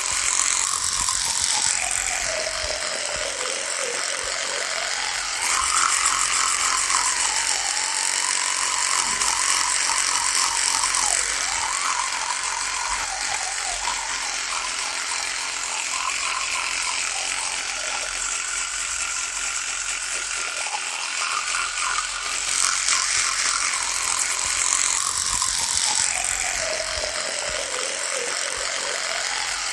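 Electric toothbrush running continuously with a rattling buzz. Its hum slowly dips in pitch and rises again, and it gets a little louder and quieter a few times.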